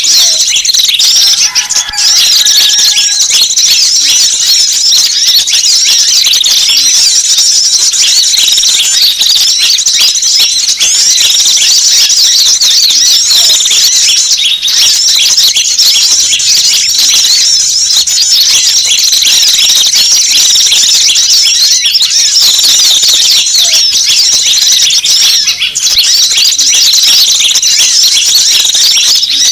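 Dense, unbroken chirping and twittering of many small wild birds, high-pitched calls overlapping one another. It is a mixed bird-lure (pikat) recording meant to draw in small wild birds.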